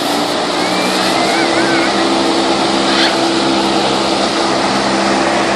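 Giant stage wind fan running, a loud steady rush of blown air with a motor hum that grows stronger about a second in. A short warbling whistle is heard briefly over it.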